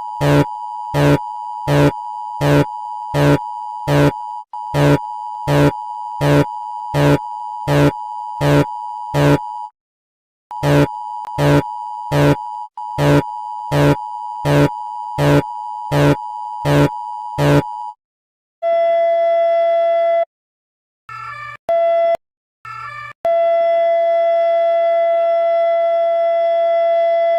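Electronic alarm signals. First a steady tone near 1 kHz with a regular pulse about three times every two seconds, which breaks off briefly and then stops about 18 seconds in. Then a different steady alarm tone starts and stops several times.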